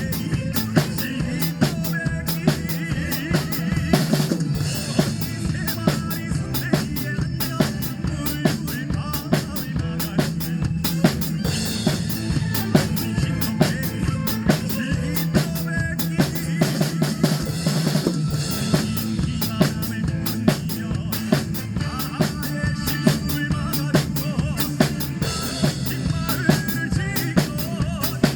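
Drum kit played in a fast, steady trot beat, with bass drum, snare and rimshot hits, over the song's recorded backing track with vocals.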